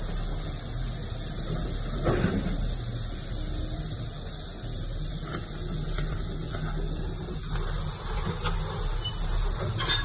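AEMK DX230LC-C crawler excavator running, its Cummins diesel engine giving a steady low rumble under a constant high hiss, with a brief louder sound about two seconds in.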